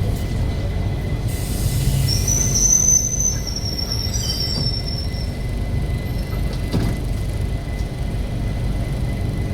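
Passenger train rolling with a low, steady rumble. About a second and a half in, a high-pitched metallic wheel squeal rises and lasts about three seconds as the train slows into the station.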